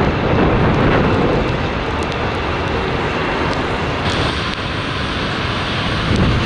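Strong wind buffeting the microphone, mixed with the engine noise of a jet airliner.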